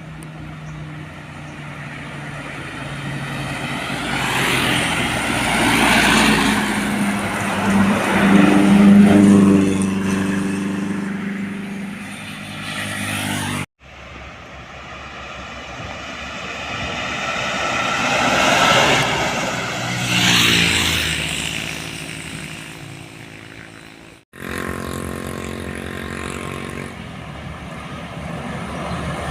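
Heavy diesel trucks driving past one after another, each engine growing louder, peaking and fading away with its pitch dropping as it goes by. The sound cuts off abruptly twice, where one pass ends and the next begins.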